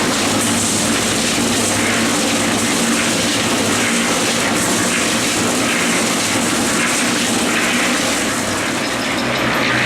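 Electric concrete mixer running steadily, its drum turning with a continuous hum and rumble while it mixes dry-mix concrete.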